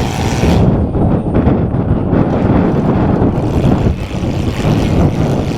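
Engines of compact demolition derby cars running loud and rough, a dense low rumble that carries on without a break.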